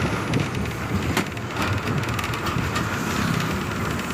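Ride noise inside a moving bus: steady engine and road rumble with the body rattling, short clicks and knocks scattered through it, a sharper one about a second in.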